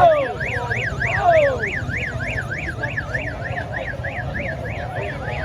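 Electronic siren yelping, its pitch sweeping up and down about four times a second, over a low rumble of engines and crowd. A couple of falling cries cut across it in the first two seconds.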